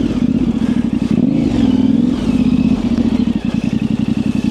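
Yamaha Ténéré 700's parallel-twin engine with an aftermarket high exhaust, running at low revs with a couple of small throttle blips as the bike moves slowly.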